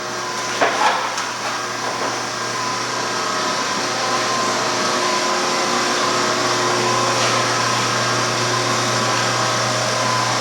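A steady mechanical drone with a low hum, like a motor running, with a few knocks about a second in.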